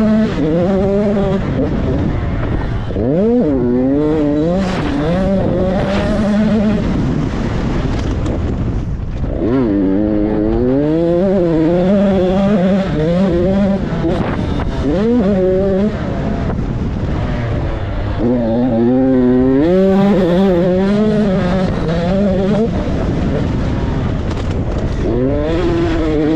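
Motocross motorcycle engine running hard around a dirt track, its pitch climbing and dropping back over and over as the throttle opens and closes, with some stretches held steady.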